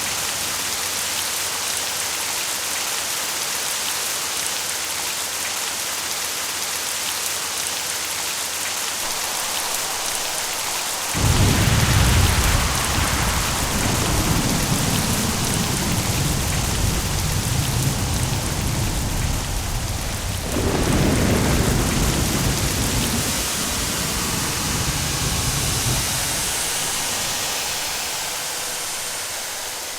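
Steady heavy rain, with thunder breaking in suddenly about a third of the way through and rolling on. A second clap comes about two-thirds of the way in, and the rumbling dies away well before the end.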